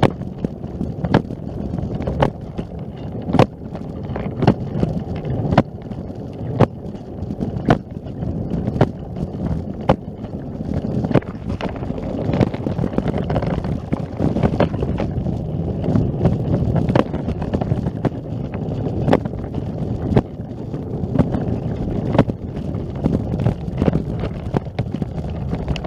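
Wind rumbling on the microphone, with a sharp click repeating about once a second.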